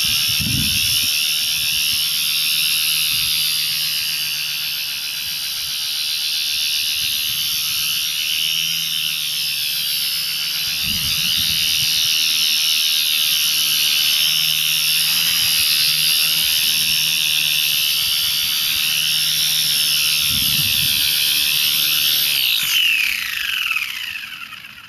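Coaxial RC helicopter's brushless electric motor and twin rotors whining steadily, the pitch wavering up and down as the throttle shifts. Near the end the whine falls in pitch and fades as the rotors spin down.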